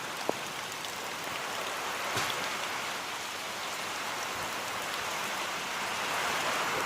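Steady rain falling and splashing, an even hiss with a couple of sharper drip taps.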